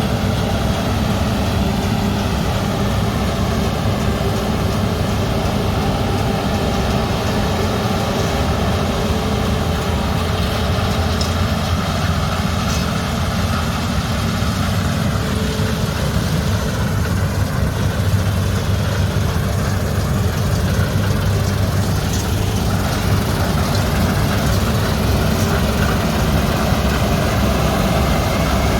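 Combine harvester running steadily at work: a heavy diesel engine with dense machinery noise over it.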